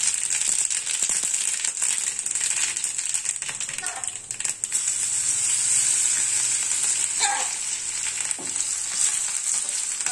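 Hot oil sizzling as mustard seeds, garlic and curry leaves are tempered in a pan, with a steady hiss and scattered sharp crackles from the seeds. A short pitched call comes twice over the sizzle.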